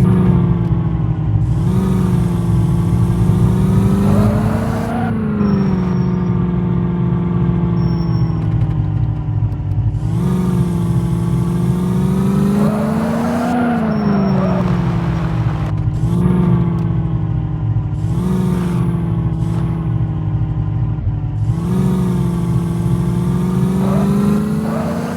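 Jeep engine running hard off-road, its revs rising and falling again and again, with the two biggest rises about five seconds and thirteen seconds in.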